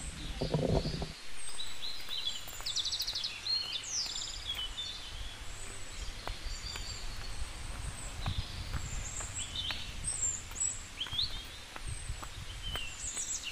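Several wild birds calling in scrub woodland: short high chirps and whistles scattered throughout, with a fast trill about three seconds in, over a low rumble on the handheld microphone.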